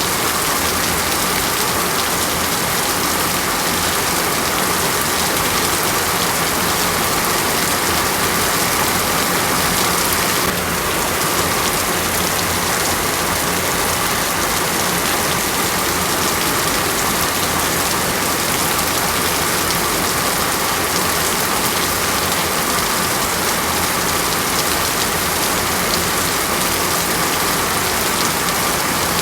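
Steady, dense rainfall: an even, unbroken hiss of rain, with a slight shift in its texture about ten seconds in.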